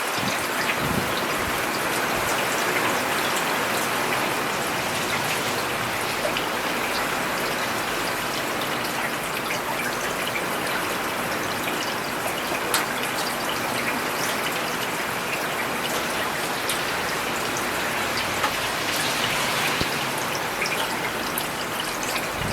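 Steady rain falling on a paved urban road, an even hiss of rainfall with many small individual drop impacts.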